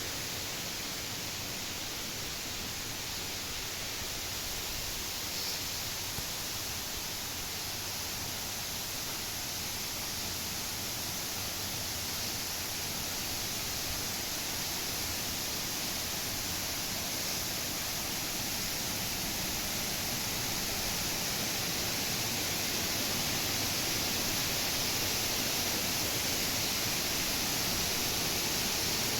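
Steady hiss of rushing water, growing slowly louder.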